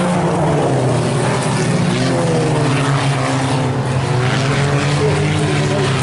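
Several IMCA Sport Compact race cars' four-cylinder engines running together at racing speed, their overlapping engine notes rising and falling as they lap.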